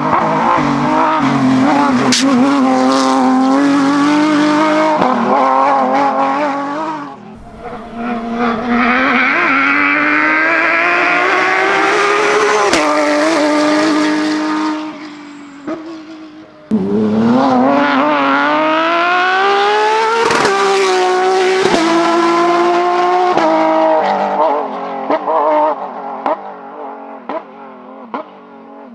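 Porsche GT3 rally car's flat-six engine at full throttle, its pitch climbing steeply through two long pulls with a brief lift between them, then blipping unevenly and fading as the car moves away.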